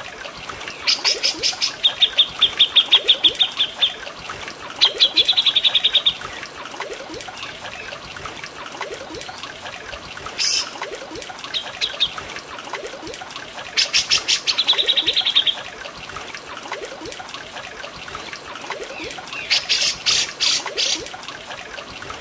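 Recorded songs of cucak jenggot and cililin: rapid trilled phrases of quickly repeated notes, with a few harsher, scratchier bursts near the middle and end. Under them runs a steady trickle of water.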